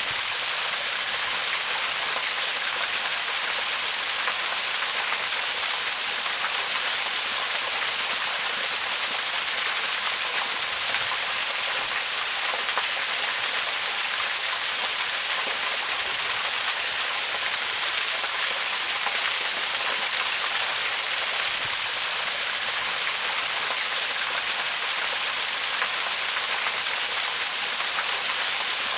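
Waterfall: a steady, even rush of falling water, mostly high hiss with little low rumble.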